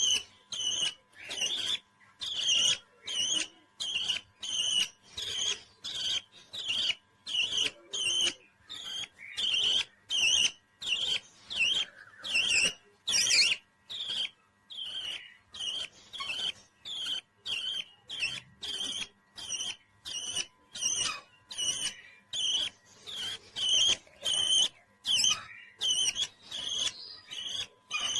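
Pet parrot calling: short, high chirping calls repeated in a steady rhythm, about two a second.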